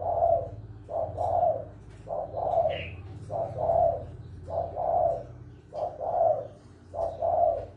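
Spotted dove cooing in the 'pha kim' (mixed) voice prized by Vietnamese dove keepers: a two-part coo repeated seven times, about once a second, over a steady low hum.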